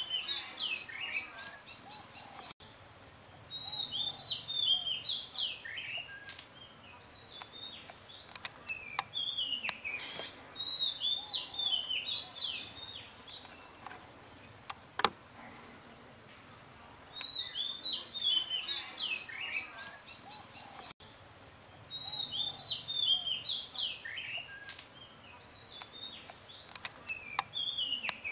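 A songbird singing in repeated phrases of quick, high chirping notes, with pauses of one to three seconds between phrases. A single sharp click about halfway through.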